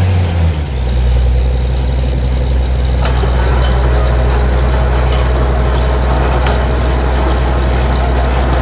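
Borewell drilling rig's engine running steadily under load. Its low pitch drops a little about half a second in, then holds even, with a few faint ticks over it.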